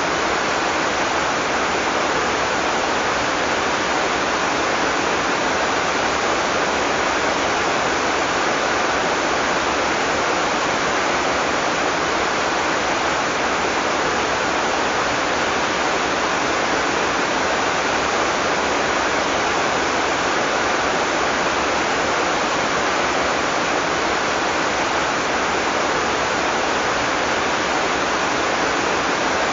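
Heavy tropical rain falling steadily, an even hiss that neither builds nor fades, with no thunder.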